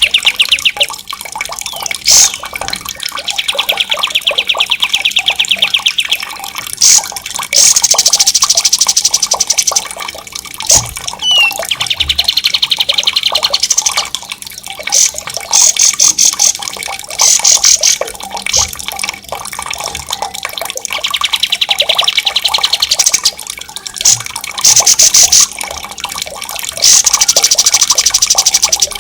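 Songbird song in long, very fast rolling trills (ngerol), loud and sharp, each run lasting a few seconds, some rising in pitch at the end. It plays over a steady wash of running water.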